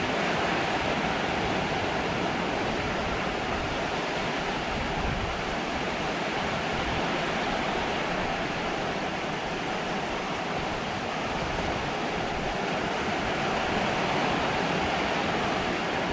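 Heavy hurricane rain pouring down steadily on the yard and the metal porch roof, an even rushing hiss with no let-up.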